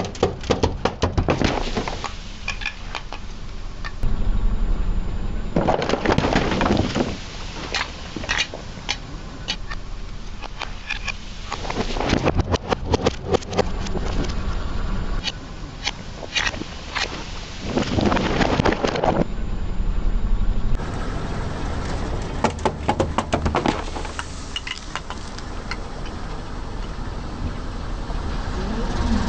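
Car tyres rolling over brittle objects and crushing them: repeated bursts of crackling snaps and crunches over a low engine rumble, in several separate takes.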